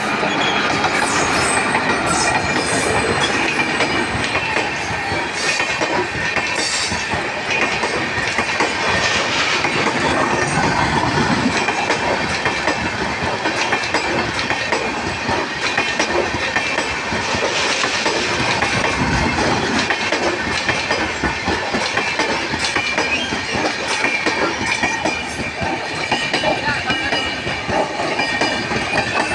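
Indian Railways train passing close by, its wheels clattering over the rail joints in a steady, loud rush, with a faint high squeal from the wheels.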